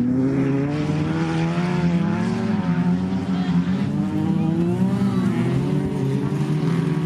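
Several banger racing cars' engines running hard on an oval track, overlapping, their pitch rising and falling as they rev and lift.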